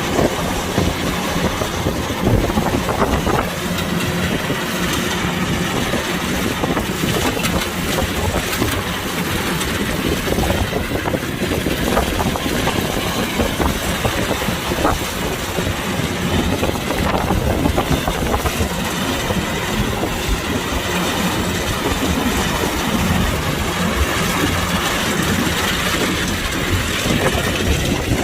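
Kubota DC-105X combine harvester's diesel engine and machinery running steadily.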